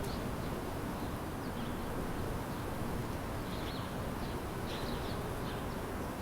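Small birds chirping in short, scattered calls, several together between about three and a half and five seconds in, over a steady low city rumble.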